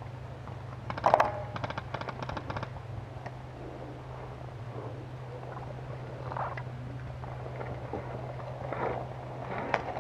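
Airsoft electric gun firing a full-auto burst about a second in, a rapid even rattle lasting under two seconds, with a few scattered single shots near the end.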